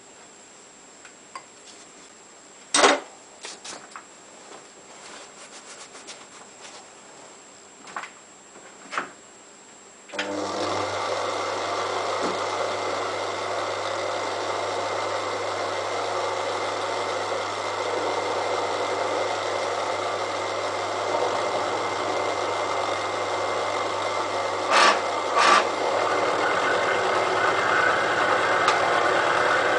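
Small benchtop milling machine (Elliott Omnimill 00) switched on about a third of the way in, its motor and spindle then running steadily with a low hum and a dense rasping noise on top. Before it starts there are a few light clicks and knocks of tools being handled, and two sharp knocks come late on while it runs.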